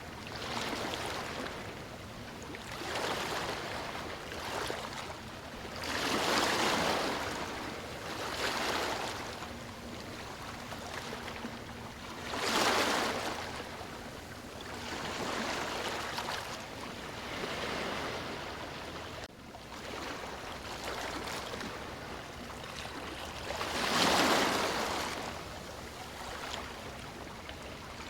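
Sea waves breaking and washing on a beach, in swells every few seconds. The biggest breakers come about a quarter of the way in, near the middle and near the end.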